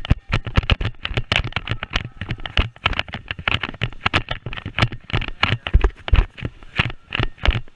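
Airsoft gunfire: many sharp, irregular cracks and clicks, several a second, from guns firing and BBs striking.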